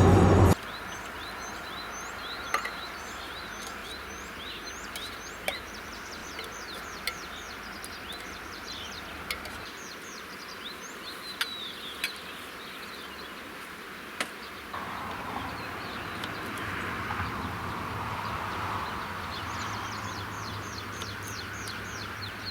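Outdoor ambience with small birds chirping: runs of short, high, falling chirps over a steady hiss, with a few sharp clicks.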